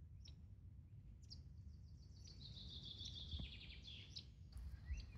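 Faint songbird song: a long, rapid trill of high notes that starts about a second in and slides slowly down in pitch over about three seconds, over a low background rumble.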